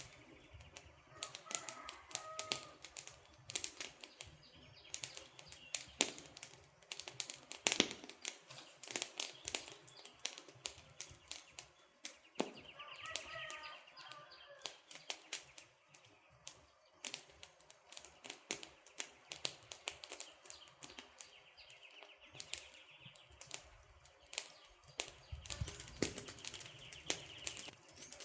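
Wood campfire crackling, with dense, irregular sharp pops and snaps. A bird calls briefly twice, about two seconds in and again near the middle.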